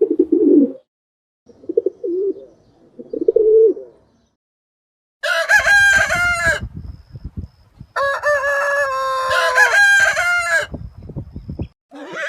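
Chickens: three short, low clucking bursts, then a rooster crowing twice. The second crow is longer, held and then dropping in pitch at the end.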